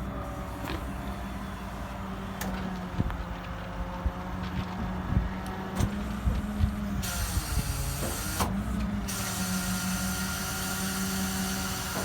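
Bucket truck's V10 gasoline engine running with a steady hum, with scattered clicks and knocks; about seven seconds in a steady hiss joins it, breaking off briefly near eight and a half seconds.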